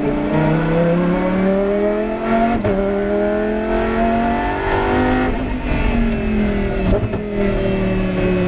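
Lamborghini Huracán GT race car's 5.2-litre V10 accelerating hard, its pitch climbing through the gears with quick upshifts about half a second and two and a half seconds in. From about five seconds in the engine note falls as the car slows, with another shift near seven seconds.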